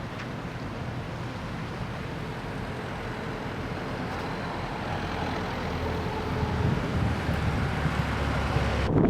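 A low engine drone that grows steadily louder as it draws near, with wind noise on the microphone.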